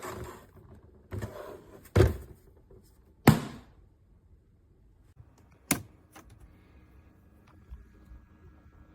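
Handling of a small plastic thermoelectric mini fridge: several sharp knocks and thuds as bottles are set inside and its door is shut, the loudest a little over three seconds in. A faint steady hum with a few steady tones sets in about two-thirds of the way through.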